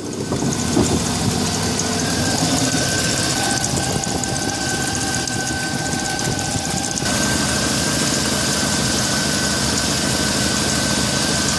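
Chevy pickup truck's engine running steadily at idle, with a constant high whine over it. The sound shifts abruptly about seven seconds in.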